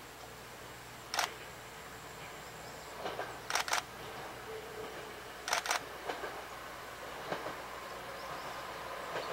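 Diesel railcar approaching on the line, its running noise growing steadily louder, with sharp clicks every second or two, some of them in quick pairs.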